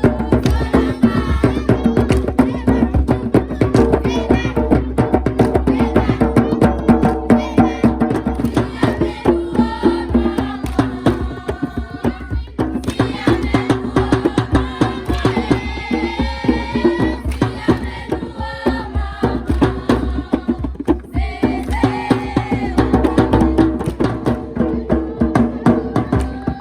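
Group singing over hand drums beating a fast, steady rhythm.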